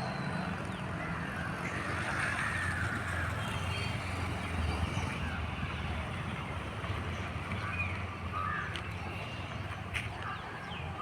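Birds calling in short, scattered calls over a steady low rumble.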